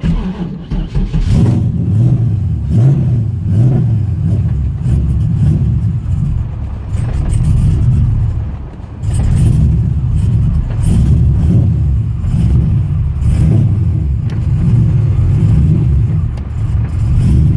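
V8 engine of a V8-swapped Mazda RX-7 cold-starting: it catches at once and settles into an uneven, wavering idle that sags briefly a little past halfway. The owner says the base idle is set a little low and the idle set screw needs adjusting.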